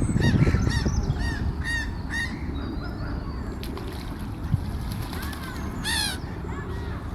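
Birds calling: a quick run of about five arched, high-pitched calls in the first two seconds, then a single louder call about six seconds in, over a steady low rumble.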